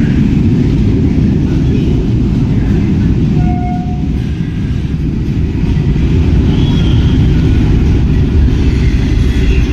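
Light rail train running through the station, a loud steady low rumble, with a brief high tone about three and a half seconds in.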